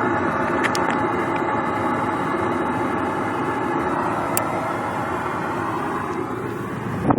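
Goodman HVAC unit running steadily, a constant fan-and-compressor hum with a few faint held tones, switched on in heat mode to defrost the frozen coil. Right at the end, wind gusts on the microphone come in louder.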